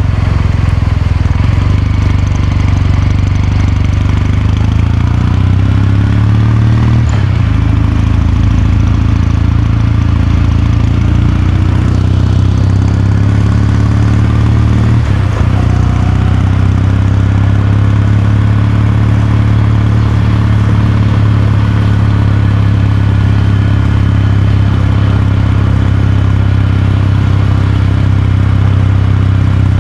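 Kawasaki Meguro K3's air-cooled parallel-twin engine and exhaust running under way, with gear shifts about seven and fifteen seconds in, then holding a steady note.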